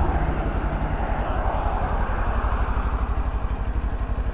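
Kawasaki Ninja 400's parallel-twin engine running steadily at low revs, an even rapid pulsing exhaust note.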